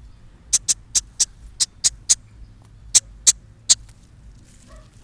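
Baby bird giving short, high-pitched cheeps, about ten of them at irregular intervals, begging to be fed.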